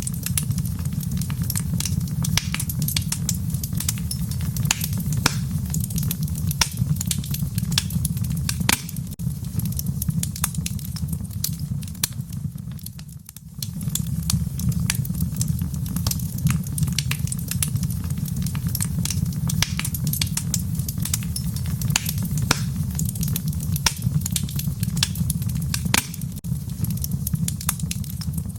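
Fire in a fireplace crackling and popping over a steady low rumble of flames. Both dip briefly about halfway through, then pick up again.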